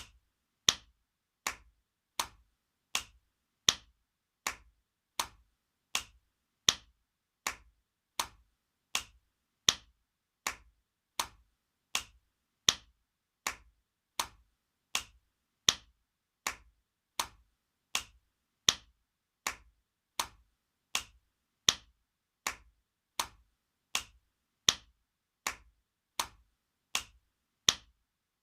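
Spanking sound effect: a sharp hand slap repeated over and over at an even pace, about one slap every three-quarters of a second, with every fourth or so slap louder.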